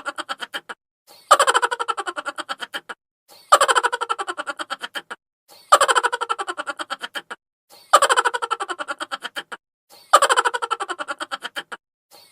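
A high-pitched chipmunk-voice laugh sound effect on a loop. The same short laugh repeats about every two seconds: a quick run of 'ha' pulses that falls in pitch and fades, with a brief gap before the next.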